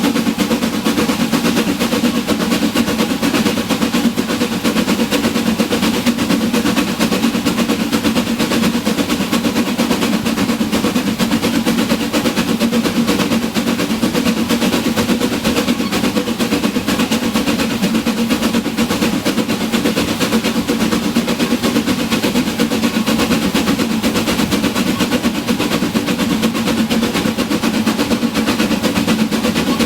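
Narrow-gauge train running at a steady pace: a continuous, fast, dense rattle over a low steady hum.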